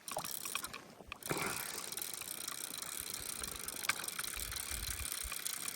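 Fly reel's click-and-pawl ratchet chattering as line is reeled in on a hooked rainbow trout. It drops out briefly about a second in.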